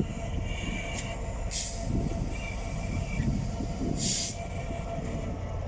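Class 66 diesel locomotive, its two-stroke V12 diesel engine running with a steady low rumble as the train moves past. There are two short hisses about one and a half and four seconds in.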